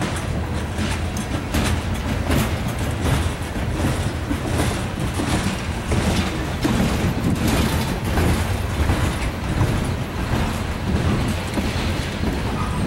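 Covered hoppers and tank cars of a mixed freight train rolling past. There is a steady rumble, and the wheels clack over the rail joints about once or twice a second.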